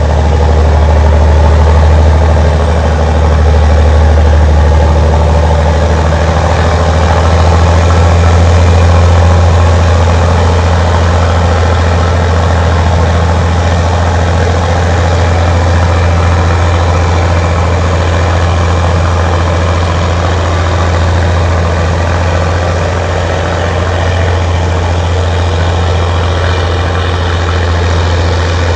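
Allis-Chalmers HD21 bulldozer's diesel engine running steadily with a deep low hum, its level swelling and easing slightly every few seconds.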